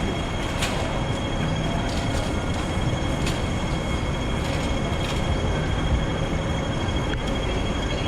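Hong Kong double-decker electric tram running along its track, heard from on board: a steady rumble of wheels on rails with a thin high whine held throughout and a couple of short clicks.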